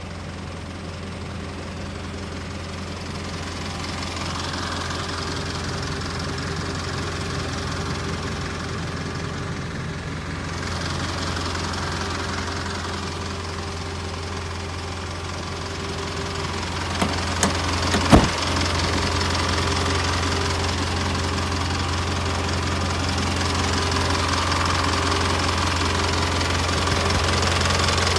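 Isuzu Elf truck engine idling steadily, with a few sharp clicks about two-thirds of the way in.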